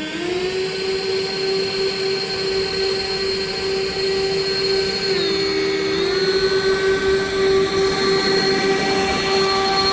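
Two leaf blowers revving up and then running at a steady high whine, pushing a rail flat car along the track. Their pitch dips briefly about five seconds in and comes back up.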